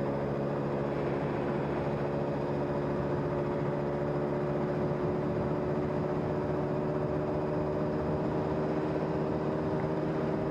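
A vehicle's engine running at a steady cruising speed while driving, an even hum with a low road rumble beneath it.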